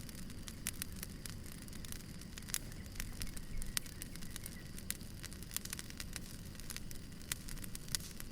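Wood fire burning, its logs crackling with irregular sharp pops and snaps over a steady low rumble.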